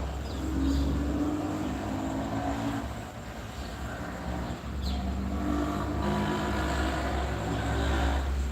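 A motor vehicle engine running with a steady low rumble, easing briefly about three seconds in, with a couple of short high chirps above it.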